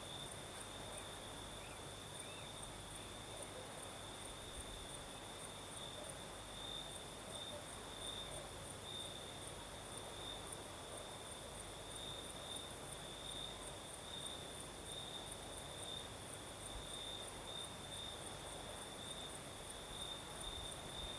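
Crickets singing at night: a steady high trill, with a second, higher chirp pulsing rapidly over it.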